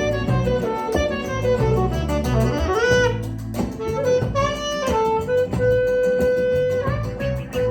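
Instrumental passage of a live band: a lead melody line slides between notes and then holds one long note near the end, over guitar and a steady bass.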